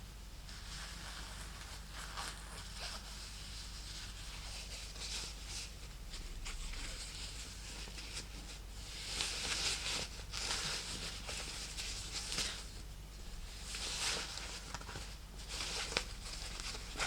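Fingernails scratching and tapping on a summer purse: hissy scratching swells with scattered light taps, loudest about nine to eleven seconds in and again around fourteen seconds.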